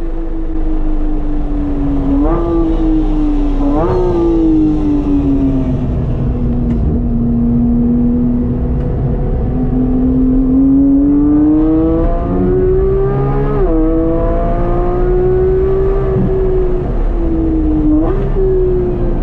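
Porsche 991.1 GT3's 3.8-litre flat-six with an aftermarket exhaust, driven hard on track. The engine note sinks and climbs with speed, with quick jumps in pitch at several gear changes.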